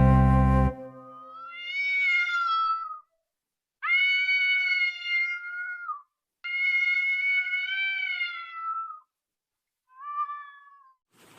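A domestic cat meowing: three long, drawn-out meows of about two seconds each, then a short one near the end. Acoustic guitar music cuts off just under a second in.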